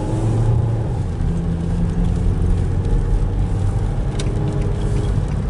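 Car engine running with the steady low rumble of a car being driven slowly, heard from inside the cabin. A single faint click about four seconds in.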